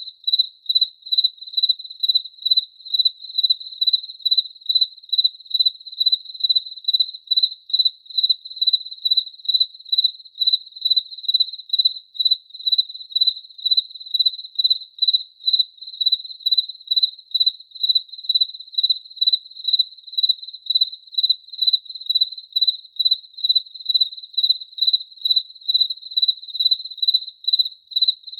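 A cricket chirping steadily: one high, clear pitch repeated in an even rhythm of about two chirps a second.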